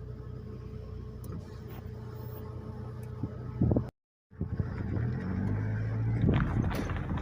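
A steady low mechanical hum, like a running vehicle engine, cut off abruptly for a moment a little past halfway, then returning louder and rougher.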